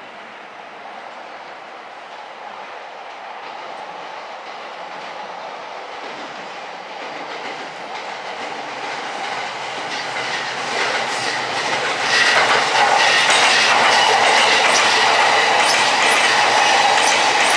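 JR East E657 series electric train running into the station, growing steadily louder. Its wheels click over the rail joints from about ten seconds in, and a steady whine from the wheels sets in shortly after.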